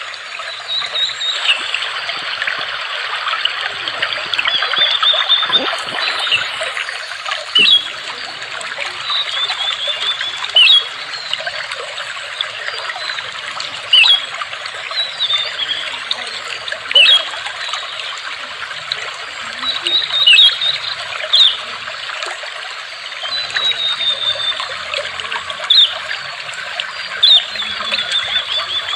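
Water trickling and babbling steadily, with a bird giving short high chirps every few seconds, some in quick runs of several notes.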